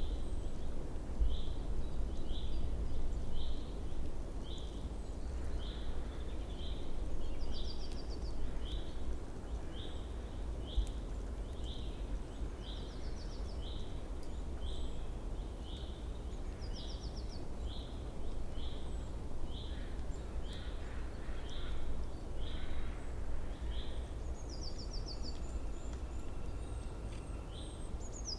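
Small birds calling: a short high chirp repeated about once a second, with a brief rapid high trill four or five times, over a steady low rumble.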